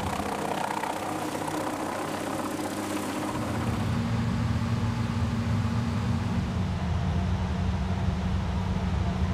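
A steady engine hum that changes and grows a little louder about three and a half seconds in, then holds steady.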